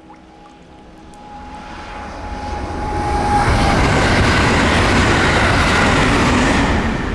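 A train passing at speed on the electrified line. Its noise builds over about two seconds, stays loud for about three, then drops near the end.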